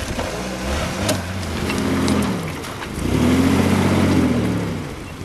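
Off-road 4x4's engine revving up and easing off in two long swells under load, the second louder, with a few sharp clicks of stones over it.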